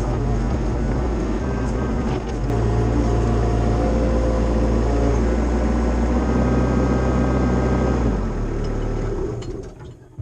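Cat 304 CR mini excavator's diesel engine running under hydraulic load. Its note steps up about two and a half seconds in, then eases and fades away near the end.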